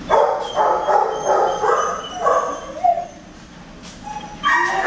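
Shelter dogs barking in their kennels: a quick run of short barks for about three seconds, a lull, then another bark near the end.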